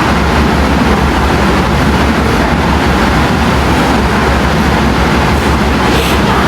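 Steady machine drone: a low hum under a rushing of moving air, from the air conditioning that cools the panda enclosure.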